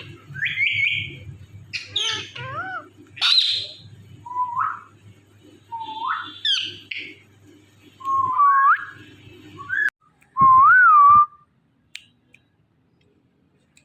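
Indian ringneck parrot whistling and squawking: short sharp calls early on, then several rising whistles, and a loud whistle that swoops up and down about ten seconds in before the bird falls quiet. A steady low hum runs underneath for most of it.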